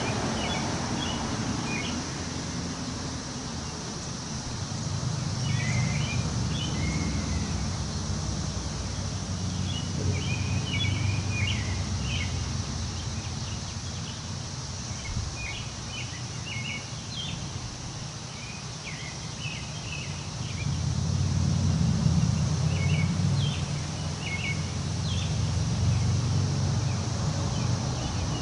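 Wind gusting through trees, swelling twice into a low rush, while small birds chirp throughout.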